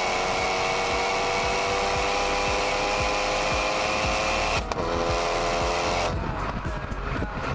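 Renault Mégane RS 265's turbocharged four-cylinder engine and exhaust pulling under acceleration, its note rising steadily, with an upshift about four and a half seconds in after which the pitch is a little lower. Near the end the engine fades and music comes in.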